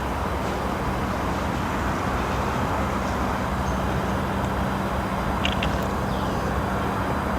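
Steady low rumble of distant traffic with a constant low hum, and two brief high chirps about five and a half seconds in.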